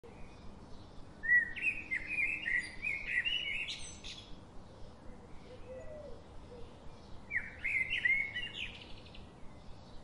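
A bird singing two rapid, warbling phrases of varied chirps, the first lasting about three seconds, the second a shorter one near the end.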